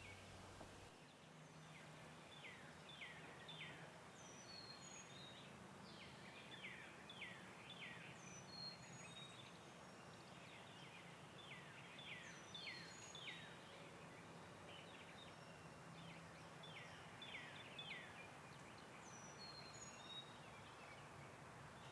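Faint birds chirping: quick downward-sweeping chirps in short runs of three to five, repeated every few seconds, with a few thin, higher notes in between.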